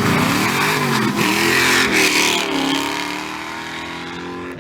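Departing car's engine revving, its pitch rising and falling a few times, then settling and fading as the car drives off.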